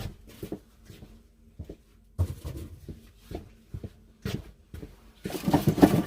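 Irregular knocks and clicks of handling, spaced out at first and coming louder and closer together near the end.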